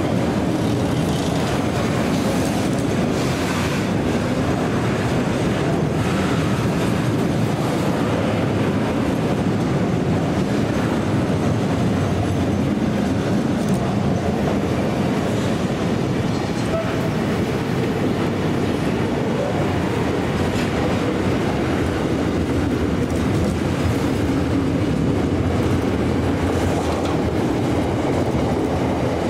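A train running along the track: a steady, deep wheel-on-rail noise that goes on without a break.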